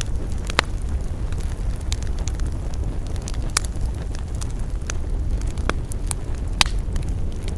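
Wood campfire crackling, with frequent small sharp pops and a few louder ones, over a steady low rumble.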